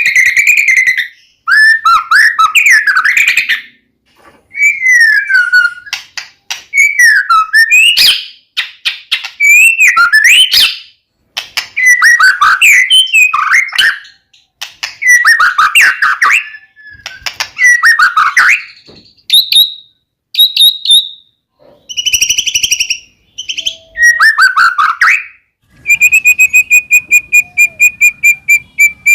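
White-rumped shama (murai batu) singing loudly: a run of varied, fast whistled phrases, each a second or two long with short gaps between. Near the end it changes to a rapid string of identical notes, several a second.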